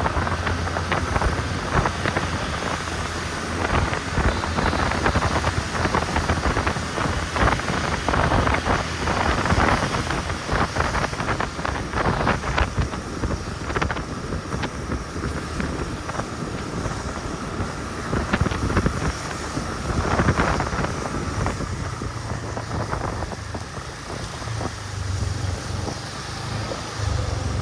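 Wind buffeting the microphone on a moving motorbike, over the steady low hum of its engine.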